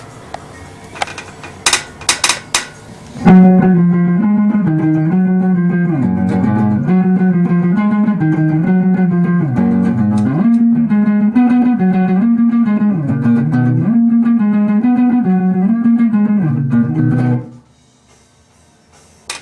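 A guitar playing a fast run of changing notes. It starts about three seconds in after a few short clicks and stops abruptly near the end.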